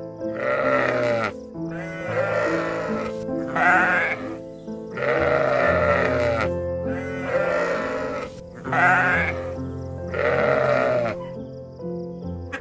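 Sheep bleating: about six quavering calls of a second or so each, spread evenly, over steady background music.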